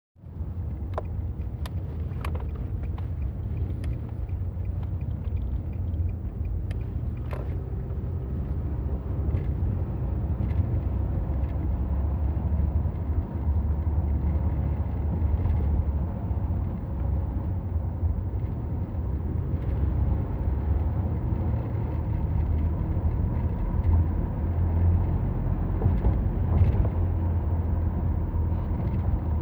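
Steady low rumble of a moving vehicle ride, with a few sharp clicks in the first several seconds.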